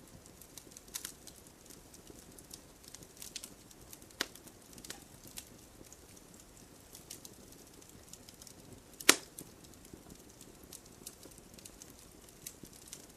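Wood campfire crackling: frequent small sharp snaps over a low hiss, with a louder pop about four seconds in and a much louder pop about nine seconds in.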